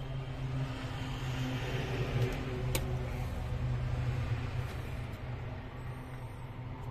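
Steady low hum of a running machine, with one sharp metallic click nearly three seconds in.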